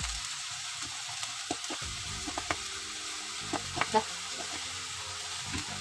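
Spice paste and sauce frying in an aluminium wok: a steady sizzle, with a few light clicks about two to four seconds in.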